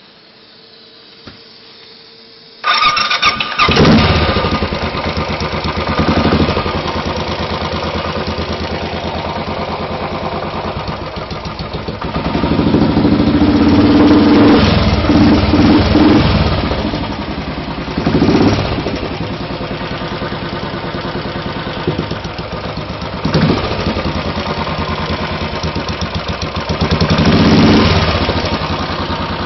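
Royal Enfield 500 single-cylinder motorcycle engine with an MG-Race aftermarket exhaust, cold-started: it catches suddenly about three seconds in and then idles loudly through the exhaust. The throttle is blipped several times, with a longer, louder rev in the middle.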